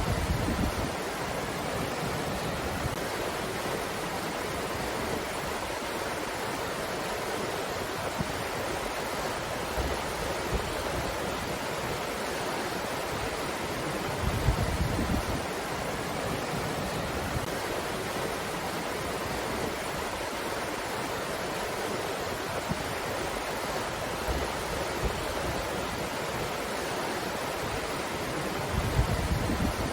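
Steady rushing of wind, with brief low rumbles about halfway through and near the end.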